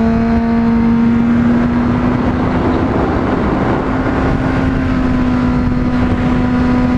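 Honda CBR600RR inline-four engine running at steady high revs while cruising, its pitch creeping slightly higher partway through, with wind rushing over the microphone.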